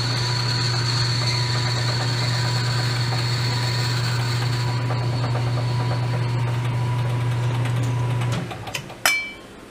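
Metal lathe running with a steady motor hum and a thin whine, then stopping about eight seconds in. Just after it stops comes one sharp metallic clink with a short ring.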